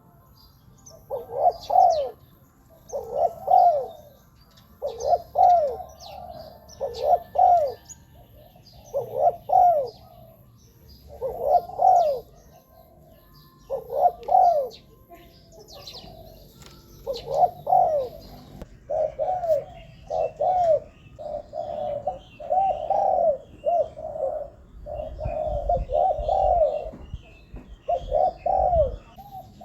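Spotted dove cooing over and over in short phrases of two or three low coos, a new phrase about every two seconds, running together more closely near the end.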